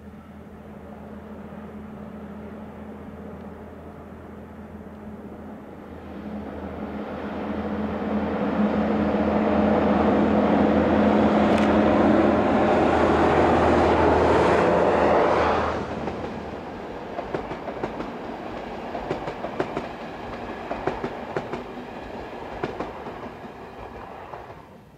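Passenger train hauled by two locomotives passing at close range. A steady low engine drone builds to its loudest as the locomotives go by about halfway through and drops away suddenly. The coaches follow with a run of sharp wheel clicks on the rails that fade near the end.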